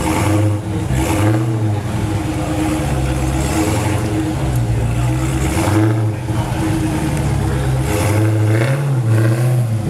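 Exotic sports car engine running loudly at idle, its pitch rising briefly with light throttle blips about a second in and again near the end.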